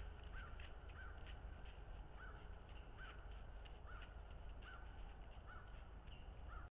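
A bird calling repeatedly, short harsh calls coming a little under one a second, over a steady low rumble. Everything stops abruptly near the end.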